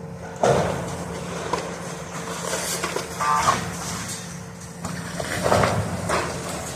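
A demolition machine's diesel engine runs steadily while part of the building's structure crashes and breaks apart, with three loud crashes about half a second, three seconds and five and a half seconds in. A brief metallic squeal comes with the middle crash.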